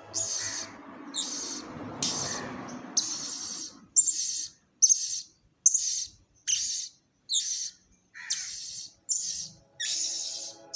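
A bird calling over and over in short high bursts, a little more than one a second, steady in rhythm. Faint background music is under the calls at first, drops out after about four seconds and returns near the end.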